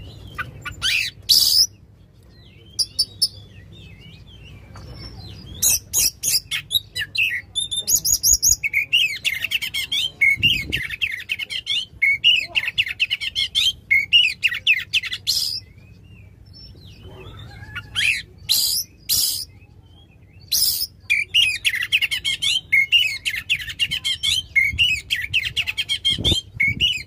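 Oriental magpie-robin (kacer) singing loudly: a few sharp whistled notes, then two long runs of fast chattering notes several seconds each, with short pauses between phrases.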